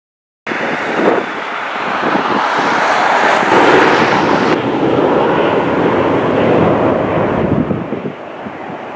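Large jet airliner passing overhead on approach or departure: a loud, continuous engine rush that cuts in abruptly about half a second in, swells around three to four seconds in and eases off near the end, with wind buffeting the microphone.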